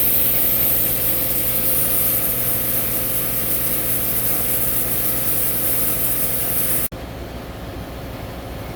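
Air compressor running steadily while air hisses into a tractor tire's new inner tube during inflation. The hiss stops abruptly about seven seconds in, leaving a quieter steady hum.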